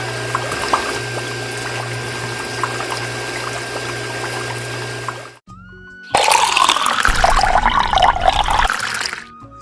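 Water pouring steadily over a low, even hum for about five seconds. After a short break, a louder rush of pouring and splashing water lasts about three seconds. Light background music plays along.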